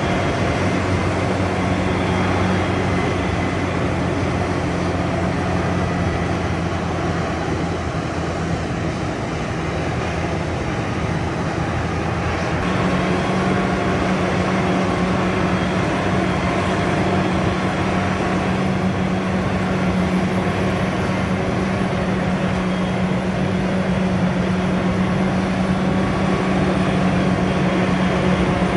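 Diesel engines of heavy farm machinery running steadily under load, with a low drone whose note shifts about twelve seconds in.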